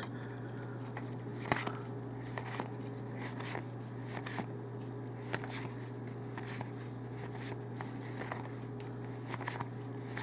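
Faint rustling and crinkling of a Magic: The Gathering booster pack being opened and its cards handled, as scattered soft clicks and rustles over a steady low hum.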